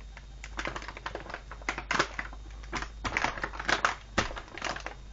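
Irregular clicks, taps and rustles of cardboard and plastic fireworks packaging being handled, thicker about two seconds in and again in the last two seconds.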